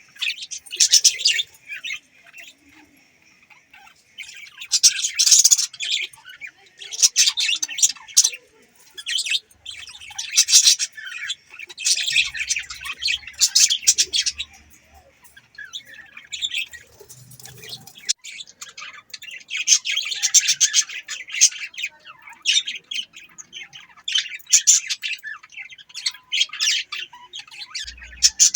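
Budgerigars chirping and chattering in bursts of high, rapid warbling calls, with brief lulls between bursts.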